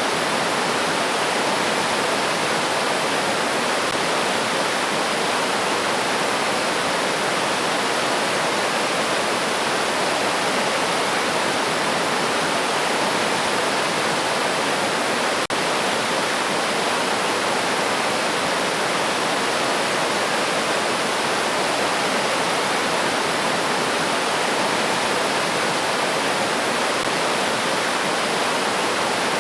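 River water rushing steadily over rocks, an even dense rush with no birdsong standing out. There is a split-second dropout about halfway through.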